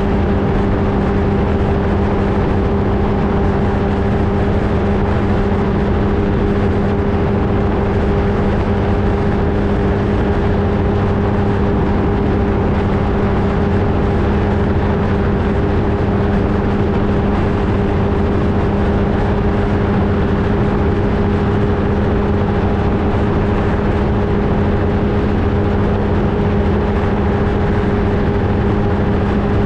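Flightstar II ultralight's engine and propeller running at a steady, unchanging pitch, over a heavy rush of wind noise.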